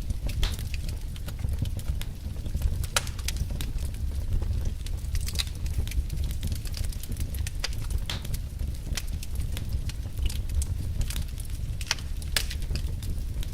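Wood logs burning and crackling, with sharp irregular pops and snaps over a steady low rumble.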